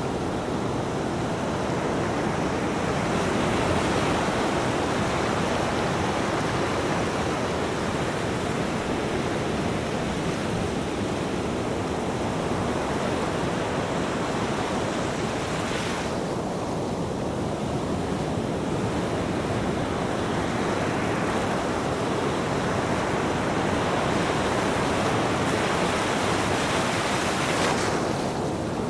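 Ocean waves breaking and washing up a beach: a continuous rushing surf, its high hiss dropping away sharply about halfway through and again near the end as the wash recedes.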